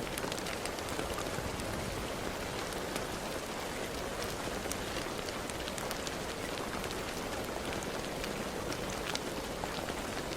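Steady rain falling on a surface, a continuous hiss with many small individual drop taps.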